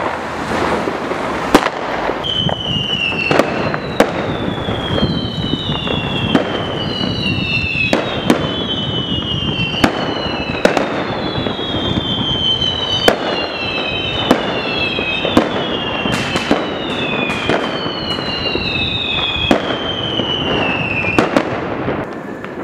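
Fireworks going off on all sides: sharp firecracker bangs roughly once a second, and many overlapping high whistles that each fall in pitch over a second or two, over a steady background din.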